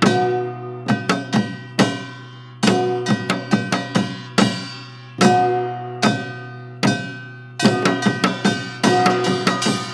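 Live band music: drum kit hits in an uneven, accented rhythm, each with ringing sustained chords decaying after it, and no singing.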